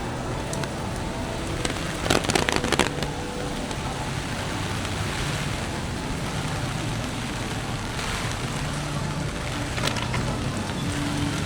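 Steady rain with car traffic on a wet city street. A short run of sharp taps and clicks comes about two seconds in, and another click near the end.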